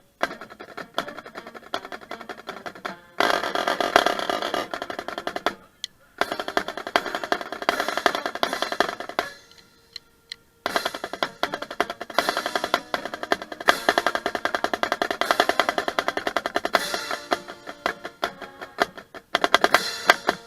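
Marching drumline playing a fast cadence: rapid snare drum strokes and rolls with other drums, breaking off briefly a few times, once for about a second.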